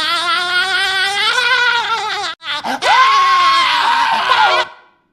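Cartoon voices: high-pitched hysterical laughter with a fast wobble, then, after a brief break, a long high scream that fades out shortly before the end.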